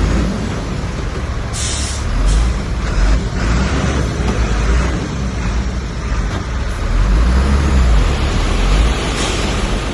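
Heavy diesel earthmoving machinery running with a steady low rumble. Two short high hisses cut through it, about one and a half seconds in and again near the end.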